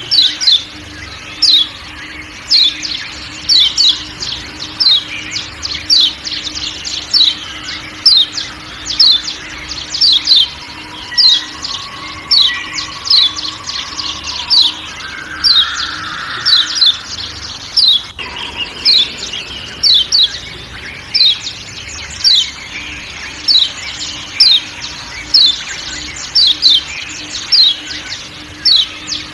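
Yellow white-eye (kecial kuning) giving repeated sharp 'ciak ciak' calls: short, high downward-sliding notes, often in close pairs, about once a second, over a faint forest background.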